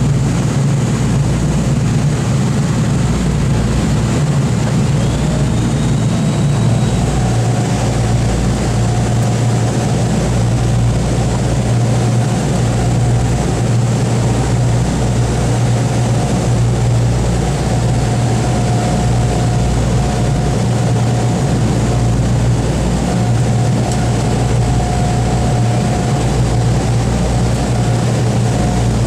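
The B-29 Superfortress's radial piston engines running steadily with a deep low rumble, and a faint steady whine joining about seven seconds in.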